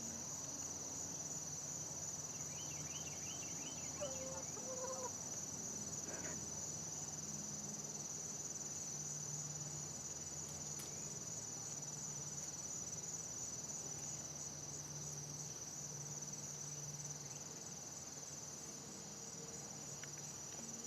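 Steady high-pitched insect chorus, with a few faint short calls about three to five seconds in.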